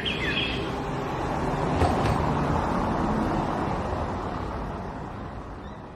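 Steady outdoor background noise, like distant traffic rumble, with a few short bird-like chirps at the very start; it fades gradually toward the end.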